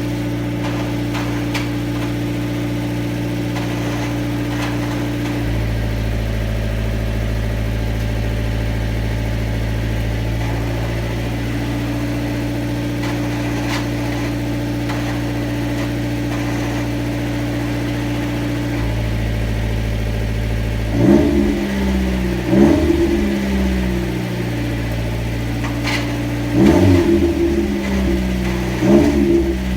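Mazda MX-5's four-cylinder engine idling steadily, its droning note changing about five seconds in and again near twenty seconds, then four short blips of the throttle near the end. The sound is meant to show a clutch noise.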